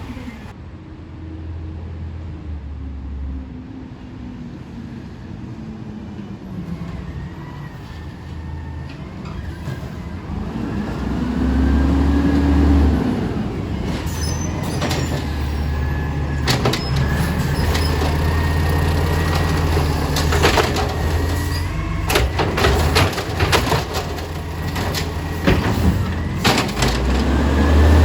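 Garbage truck running, its engine revving up about twelve seconds in. A run of sharp knocks and bangs follows, the sound of a cart being emptied into the hopper.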